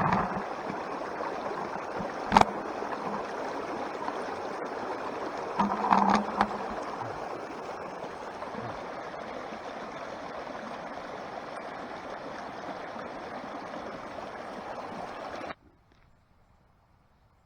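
Steady rush of a mountain stream flowing, with a single sharp knock about two seconds in and a brief voice around six seconds. The sound cuts off abruptly near the end.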